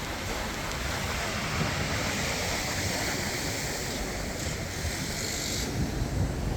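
Sea waves washing against the shore: a steady rush of surf with a low rumble underneath and a hissing wash above.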